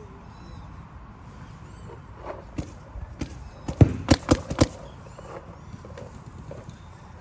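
Paintball markers firing: a few scattered faint pops, then a rapid string of about five loud, sharp shots in about a second, a little past the middle.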